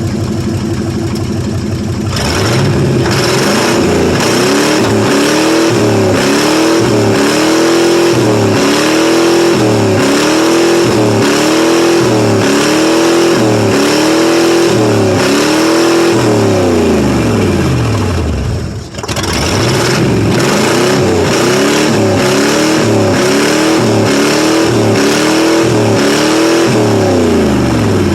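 1995 Ford F150's 5.8-litre (351) V8 idling, then revved over and over, the engine note climbing and falling about once a second, with a short drop near the middle. The owner believes the engine has a blown head gasket or cracked head, with a couple of cylinders not firing.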